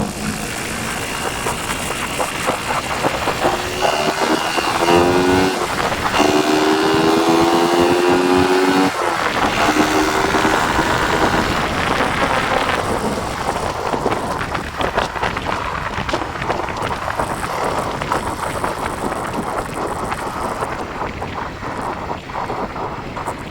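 Yamaha Vixion single-cylinder four-stroke engine, bored out to 177 cc with stock valves and a stock exhaust, accelerating hard through the gears. Its pitch climbs, drops at a shift, and climbs again. From about halfway on, wind rushing over the microphone covers it.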